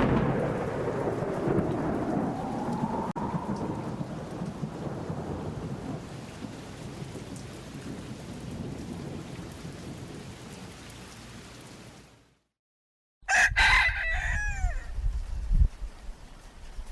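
A long rumble of thunder that slowly fades away. After a sudden cut to silence, a rooster crows once over the sound of rain.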